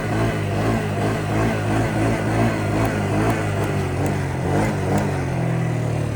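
Yamaha Grizzly 125 ATV engine running steadily under riding load, its pitch stepping up about five seconds in.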